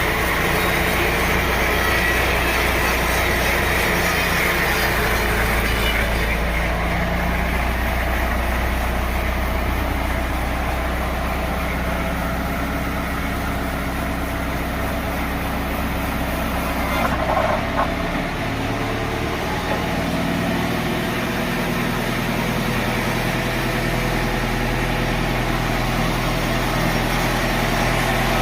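Sawmill machinery running steadily, with an engine-like hum. About two-thirds of the way through, the running note changes and there is a brief louder moment.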